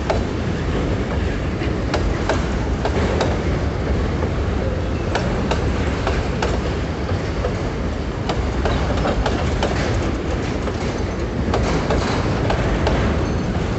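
Empty freight boxcars rolling past: a steady rumble of steel wheels on rail, broken by irregular sharp clacks as the wheels cross rail joints.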